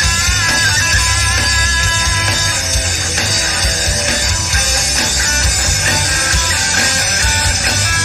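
Rock band playing live: guitar lines over a heavy, steady low end of bass and drums.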